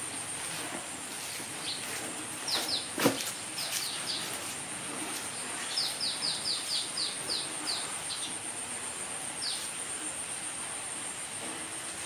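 A small bird calling in runs of short, high, falling chirps, the longest run at about four chirps a second in the middle, over a steady high-pitched hiss. A single sharp click sounds about three seconds in.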